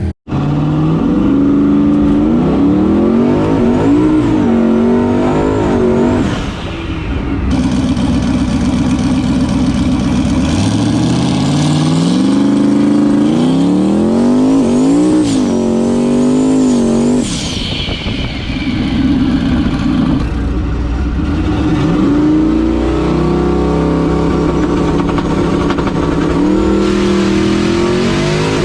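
Turbocharged race truck engine revving hard, its pitch climbing and falling several times with sharp drops about 6 and 17 seconds in, and a high turbo whistle rising with the revs.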